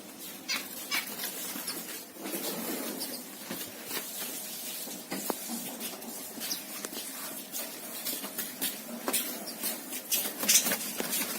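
Small birds giving short, high chirps and squeaks, with many scattered clicks and taps.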